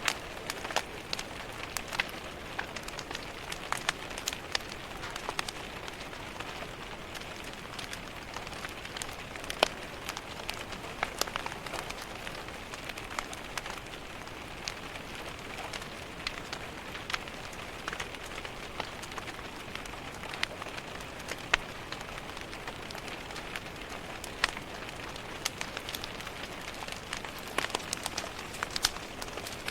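Steady rain pattering on a window, with the irregular sharp pops and crackles of a wood fire burning in a fireplace.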